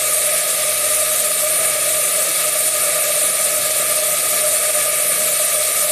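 A pan frying with a steady hiss, under an even whirring hum that holds a steady pitch.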